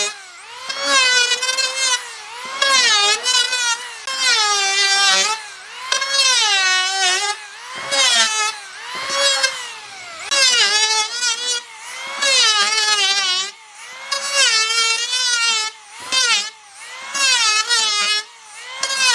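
High-speed power tool working wood in repeated passes: its motor whine sags in pitch as it bites and climbs back, about every second or so.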